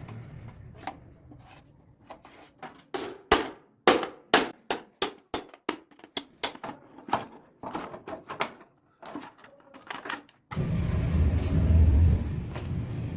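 A run of irregular sharp clicks and knocks, then, about ten seconds in, a steady low hum starts suddenly and keeps going.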